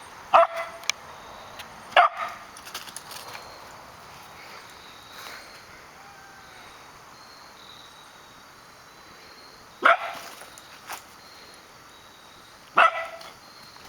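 Puppies giving four short, sharp barks during play: two in the first couple of seconds and two more near the end, with faint whines between.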